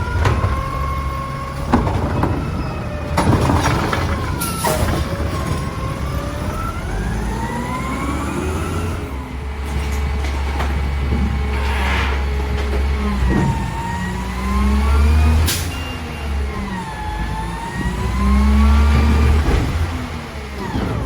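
Mack LR garbage truck's engine revving up and down with a whine that rises and falls several times, broken by a few sharp clanks and short air hisses.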